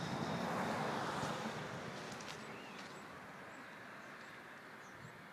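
Outdoor street ambience: a swell of noise, like a passing vehicle, fades over the first couple of seconds, leaving a low hush with a few faint bird chirps.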